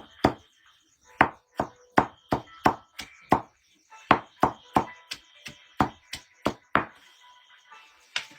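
Repeated chopping strikes of a blade, about three a second: a quick run, a brief pause around the middle, then another run of about nine blows.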